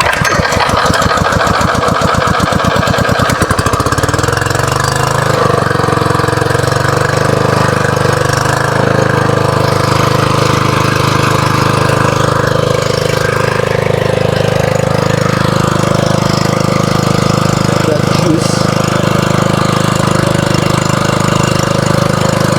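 Predator small engine on a homemade jump-starter catching and speeding up over the first few seconds, its firing strokes coming faster and faster, then running steadily at wide-open throttle.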